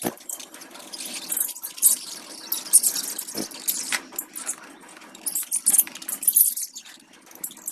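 Water splashing and spraying in irregular spurts during a pet budgies' shower.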